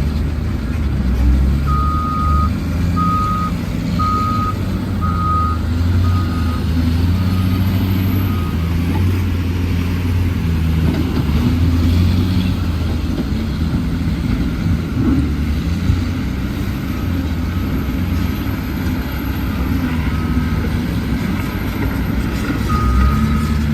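Heavy truck's diesel engine running with its reversing alarm beeping about once a second; the beeps fade away several seconds in and come back near the end.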